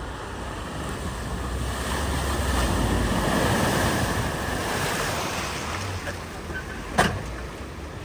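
A vehicle ploughing through floodwater: a wash of splashing, spraying water that builds to a peak in the middle and then dies away. There is a sharp click near the end.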